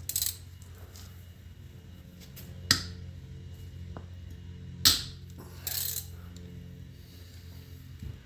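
Hand tools and loose metal parts clinking while a hydrostatic transaxle's pump and motor are unbolted: two sharp metal clicks, near a third of the way in and a little past halfway, and short scraping rasps, over a steady low hum.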